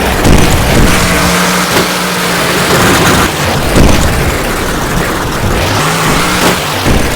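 Monster truck engine running loud and revving, its pitch stepping up and down several times.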